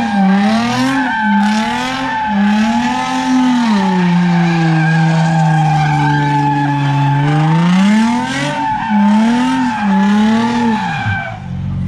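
A car doing a burnout: the engine is held high and revs up and down, sags to a lower steady pitch for a few seconds in the middle, then climbs again, over the steady squeal of spinning tyres. It cuts off sharply near the end.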